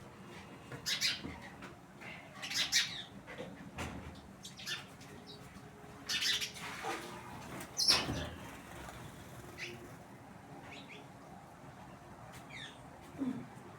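Birds calling in short, sharp chirps, a few loud ones in the first eight seconds and fainter ones after.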